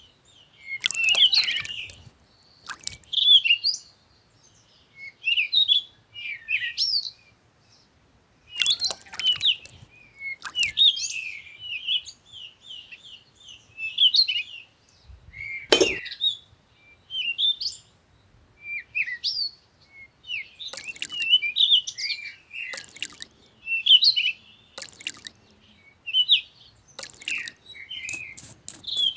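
Small birds chirping and twittering in short, repeated phrases, with a few sharp clicks or taps now and then, the loudest about halfway through.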